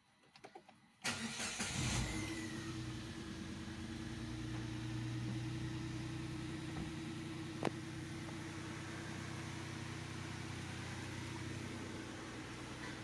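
Datsun Go+'s 1.2-litre three-cylinder petrol engine starting. After a few faint clicks it cranks and catches about a second in, runs briefly at higher revs, then settles into a steady idle. A single sharp click comes about two thirds of the way through.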